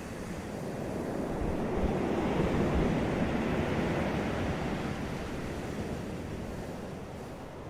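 Ocean waves breaking on a beach: a wave swells in about a second in, peaks and slowly washes out toward the end, over a steady low rumble of surf.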